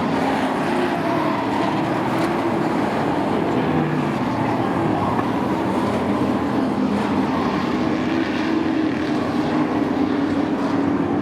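Several short-track sport trucks racing together, their engines running hard in a steady mix of tones that wander slowly up and down in pitch.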